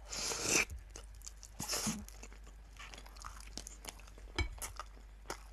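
A bite into a toasted sandwich with a crisp crunch, a second crunch about two seconds in, then quieter chewing with small wet mouth clicks.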